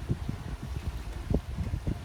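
Gusty wind buffeting the microphone, a low, irregular flutter.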